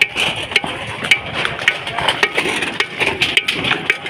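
Irregular clatter of sharp knocks and metallic clinks, several a second, some ringing briefly.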